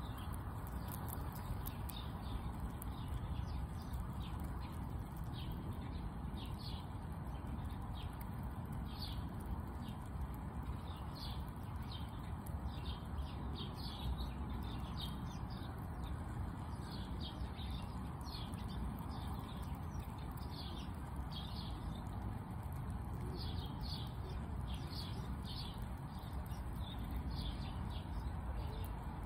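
Small birds chirping in short, scattered calls, over a steady low background rumble.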